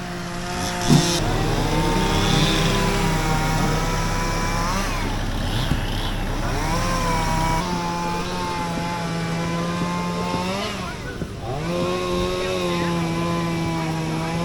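Gas chainsaw running at high revs while cutting. Its pitch dips several times as it loads up in the wood, then climbs back.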